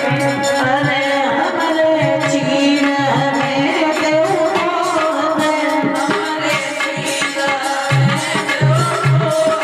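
Krishna bhajan music: tabla keeping a steady rhythm under held drone notes and a melodic line that bends in pitch. The low drum strokes grow stronger near the end.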